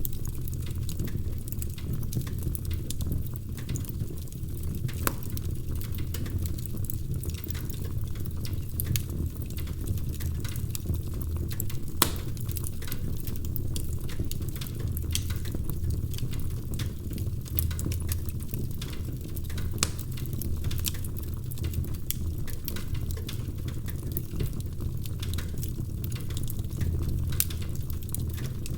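Wood fire crackling in a fireplace: a steady low rumble of flames with frequent sharp pops and snaps, one louder pop about twelve seconds in.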